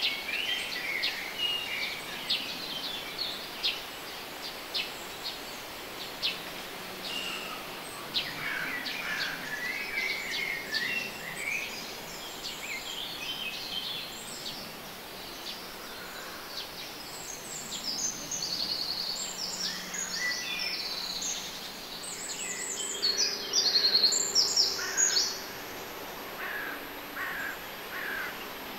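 Small wild birds chirping and singing, many short high calls overlapping, with a loud run of fast, high trills about three-quarters of the way through.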